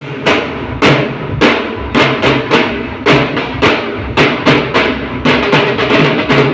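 Dhol drumming: sharp, loud strokes in a steady beat, the strokes coming thicker and faster from about five seconds in.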